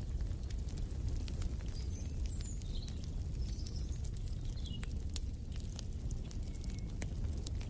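Wood fire in a fireplace crackling, with irregular sharp pops over a steady low rumble. A few short high bird chirps come in a couple of seconds in and again near the end.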